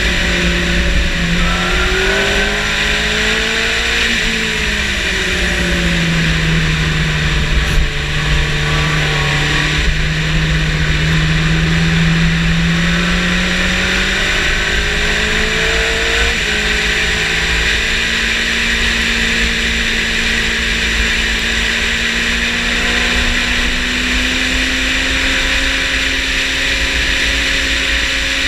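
Motorcycle engine at speed on a race track under heavy wind rush. The engine pitch falls and rises with throttle and gear changes, breaks with a shift about 16 seconds in, then climbs slowly to the end.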